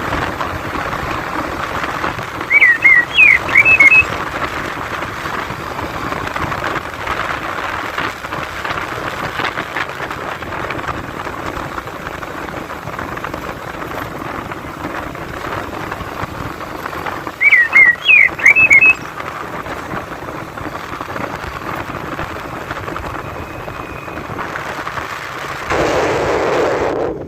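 A short bird phrase of several quick rising whistled notes, loud and clear, heard twice about fifteen seconds apart, the two phrases identical. Under it runs a steady rushing noise.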